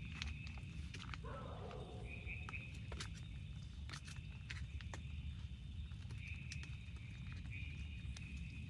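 Irregular drops tapping on tent fabric over a steady low rumble of rain. Scattered high chirps come and go, and a short animal call sounds about a second in.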